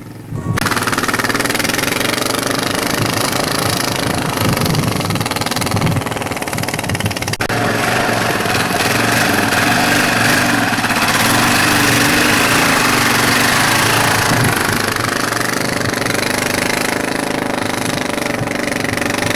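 A vehicle engine running steadily and loudly. There is a brief break about seven seconds in, after which it carries on much the same.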